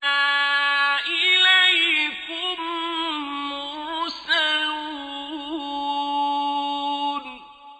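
A male reciter chanting the Quran in the melodic, drawn-out mujawwad style, holding one long high note with ornamented, wavering turns for about seven seconds. The voice then stops and its echo fades out.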